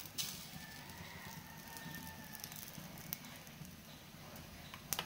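Egg-dipped bread slice frying in oil on a non-stick pan: a soft, steady sizzle and crackle, with a few light clicks.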